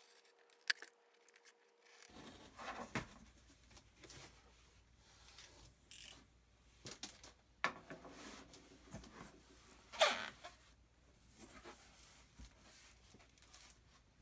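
Cardboard shipping box being opened: packing tape being slit and ripped off, with scraping and rustling in irregular strokes. The loudest is a long rip about ten seconds in.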